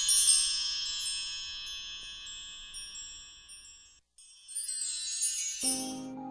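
High shimmering wind chimes ring and slowly die away, break off about four seconds in, then a fresh run of chimes sounds. Near the end soft new-age music with low held notes comes in.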